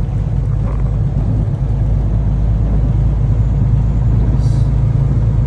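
Semi truck's diesel engine and road noise heard inside the cab while driving: a steady low drone.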